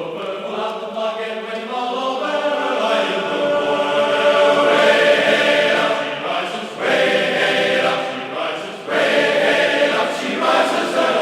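Background choral music: a choir singing long, chant-like held notes that swell and fall.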